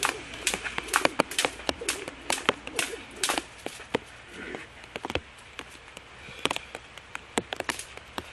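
Jump rope slapping the ground over and over, sharp smacks about two a second, with a short pause a little past halfway.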